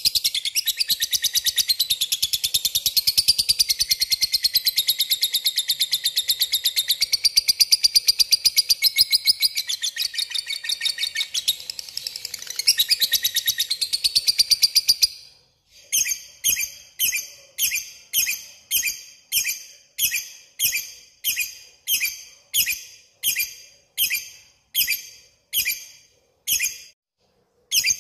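Lovebird ngekek: a long, unbroken, rapid high-pitched chattering trill lasting about fifteen seconds. It then stops and gives way to short separate chirps, about one and a half a second, in the ticking style called ngetik.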